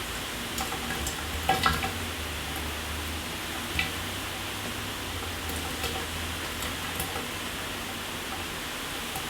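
Shower running: a steady hiss of water spray, with a few sharp ticks and taps from drops or splashes, the loudest cluster about a second and a half in and another near four seconds in.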